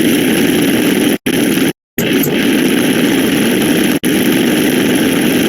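Loud, dense wash of overlapping sound effects playing at once, rumbling and noisy with no clear pitch. It cuts out abruptly twice early on and drops out for an instant about four seconds in.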